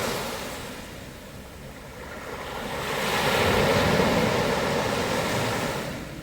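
Sea waves washing onto the shore: one swell of surf builds about two seconds in, peaks, then recedes near the end.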